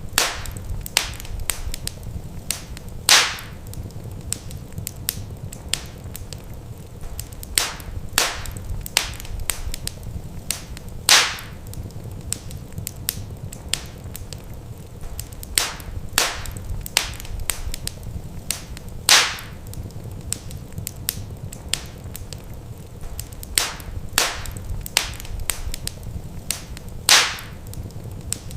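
Wood fire crackling in a fireplace: irregular sharp pops and snaps, a loud one every few seconds, over a low steady rumble.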